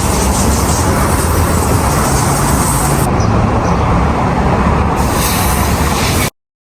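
2024 Mustang GT on the move: steady engine and road rumble. It cuts off abruptly near the end.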